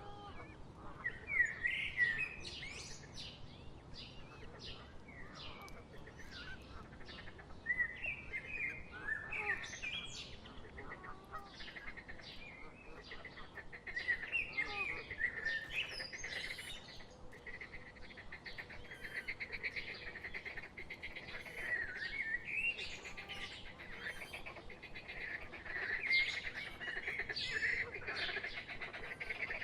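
Small birds chirping and calling in many short notes, coming in clusters, with a rapid trilling call running through the second half.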